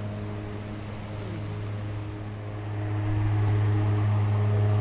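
A low, steady droning hum with a row of overtones, swelling louder about three seconds in: one of the unexplained humming sky sounds known as 'strange sounds' or 'sky trumpets'.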